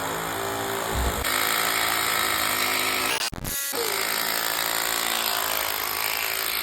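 Power tool motor running steadily, cut off briefly a little past halfway before running on.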